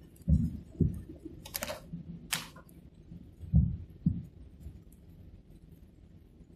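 Two pairs of short, low thumps with two brief scraping rustles between them, then a faint low hum.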